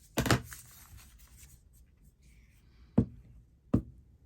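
Paper being handled and rubbed on a craft table: a loud rustle just after the start that tails off over about a second, then two sharp taps about three quarters of a second apart near the end.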